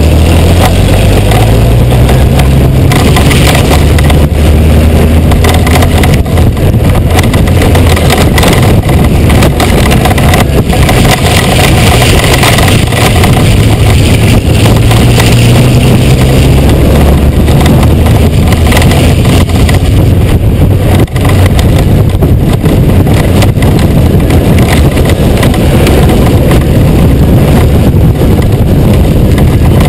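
Honda GoldWing 1500 flat-six engine running through the onboard camera mic, its revs slowly rising and falling on a winding mountain descent, under heavy wind rush.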